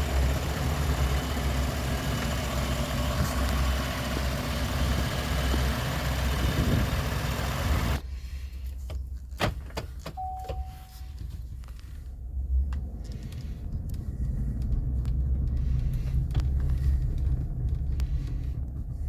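Chevrolet Silverado 1500 pickup's engine idling with a steady low hum. About eight seconds in, the surrounding hiss cuts away abruptly. Several sharp clicks and one short beep then sound over the idle.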